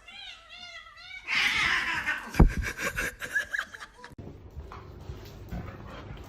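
A cat yowling in a wavering call that bends up and down several times a second, lasting a little over a second. It is followed by a louder noisy stretch with a sharp knock about two and a half seconds in.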